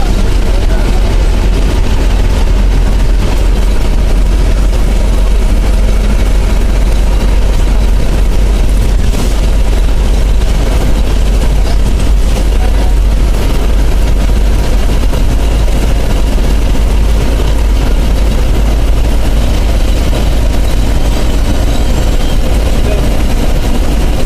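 Bus engine and road noise: a loud, steady low rumble with a constant hiss over it, unchanging throughout.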